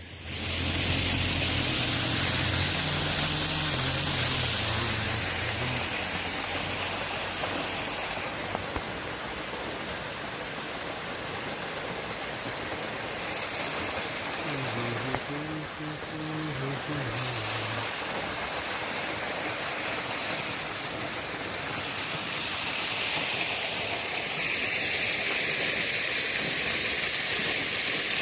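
Waterfall pouring steadily. A low hum wavers up and down in pitch over the first several seconds and again briefly around the middle.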